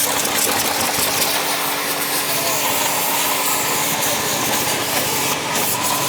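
Electric high-pressure car washer running steadily, a constant motor hum under the hiss of its water jet spraying mud off a car.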